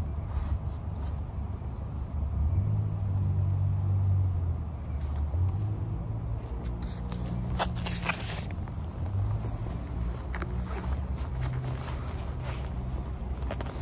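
Low, steady rumble of a vehicle engine, its pitch shifting a little now and then. About halfway through come a few sharp clicks and rustles of a plastic food tray being handled.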